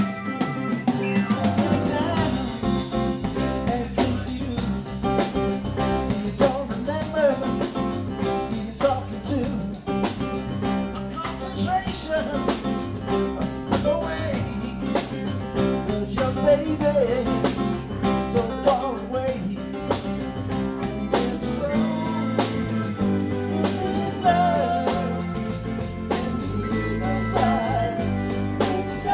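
Live band playing a rock song with drum kit, bass and guitar, over a steady beat.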